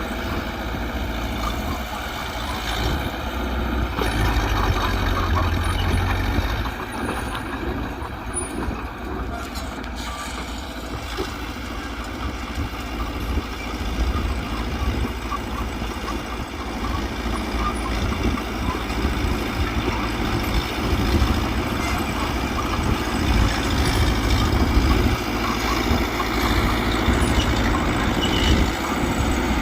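Mitsubishi BD2G bulldozer's diesel engine running steadily at work, a continuous low rumble that swells and eases a little as it works.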